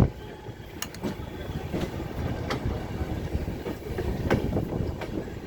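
Train running on the rails: a steady low rumble with a few sharp clicks scattered through it.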